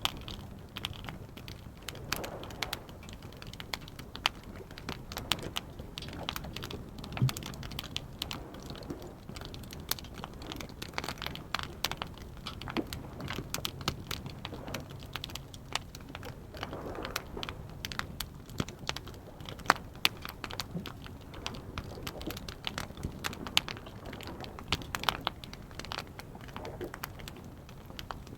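Wood campfire crackling, with frequent irregular sharp pops and snaps over a soft, steady burn.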